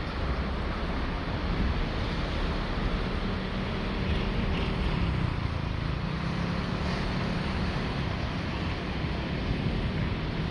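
Sea surf washing onto a beach, with wind buffeting the microphone.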